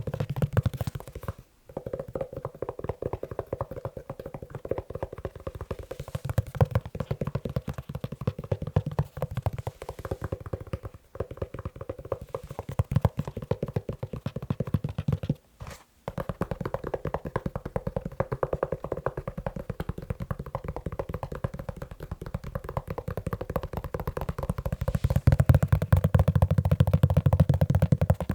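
Fast, continuous tapping on a leather shoe. It breaks off briefly three times and gets louder near the end.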